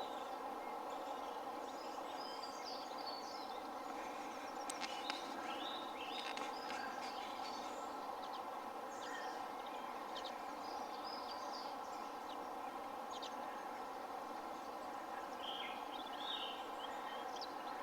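Small birds chirping and singing on and off over a steady background hiss of outdoor ambience.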